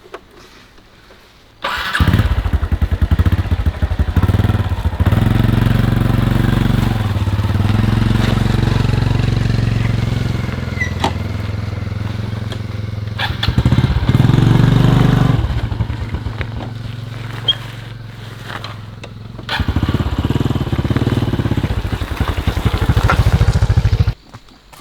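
Motorbike engine starting up about two seconds in and running, revving up and down, then cutting off abruptly near the end.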